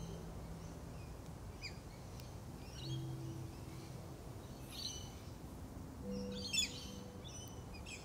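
Scattered short, high bird chirps and calls over a faint outdoor background, with one louder, sharper call about six and a half seconds in.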